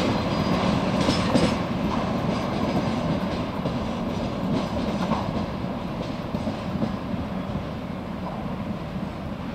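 Freight train wagons rolling along jointed track, wheels clicking over the rail joints, the rumble slowly fading as the train moves away.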